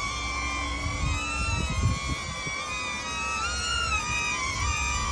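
DJI Neo mini quadcopter's propellers whining, several tones wavering up and down in pitch as the motors change speed to hold the drone steady in gusty wind. Wind rumbles on the microphone underneath.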